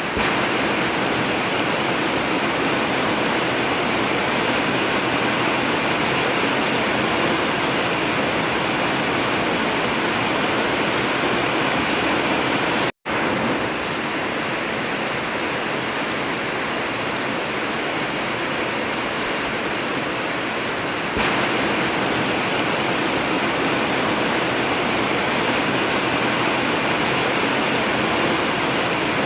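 Heavy rain pouring steadily on an old tin roof, an even hiss with no thunder. It cuts out for a split second about 13 seconds in and comes back slightly louder about 21 seconds in.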